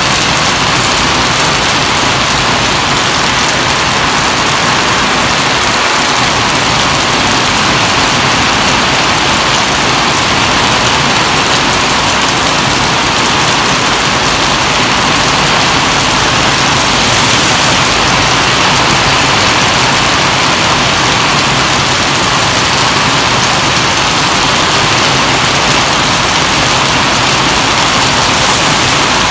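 Heavy rain pouring steadily onto a wet paved yard, road and foliage: a loud, even hiss.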